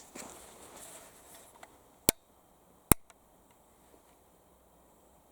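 Two sharp metallic clicks a little under a second apart, from the action of an antique single-shot 10 gauge shotgun being handled, with faint rustling of handling before them.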